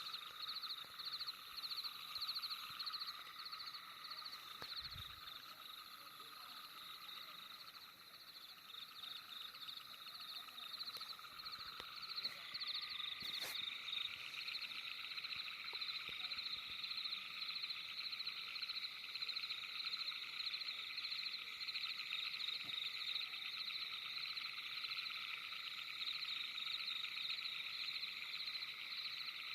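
Night chorus of frogs: several overlapping, rapidly pulsing trills at different pitches that keep on without a break and grow denser about twelve seconds in. A single sharp click cuts through about halfway.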